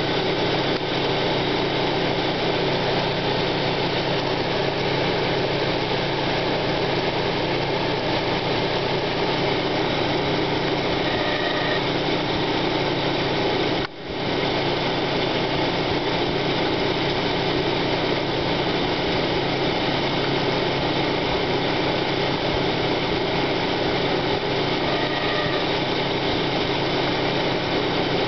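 1995 Plymouth Neon Sport's DOHC four-cylinder engine idling steadily with a grinding noise, which the owner suspects comes from a failing timing-belt idler pulley bearing or water pump. The sound dips briefly about halfway through.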